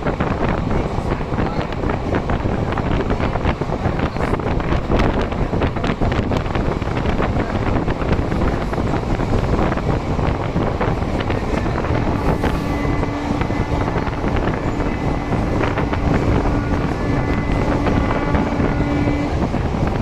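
Wind buffeting the microphone, a loud, rough rushing. A steady tone joins it about twelve seconds in and lasts for about seven seconds.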